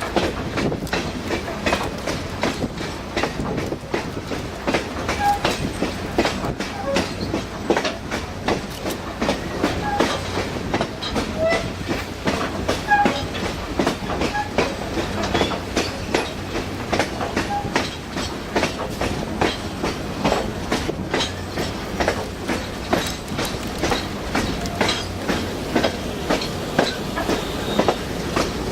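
Railroad passenger cars rolling along the track with a steady rumble and frequent, irregular clicks and clacks of the wheels over the rails, plus a few brief faint squeaks.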